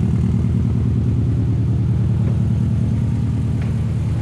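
A vehicle engine running steadily, a low even rumble with a fast, regular firing pulse and no change in revs.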